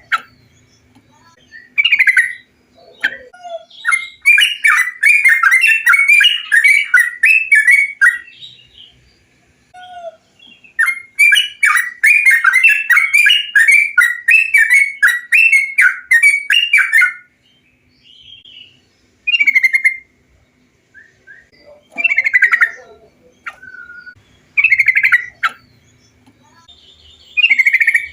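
Bulbul song: two long runs of rapid, chattering notes, each several seconds long, with short single phrases before, between and after them.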